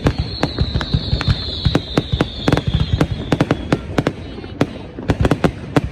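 Fireworks display going off: a rapid, irregular run of sharp bangs and crackles, with a steady high-pitched whistle that slowly falls in pitch and fades out a little past halfway.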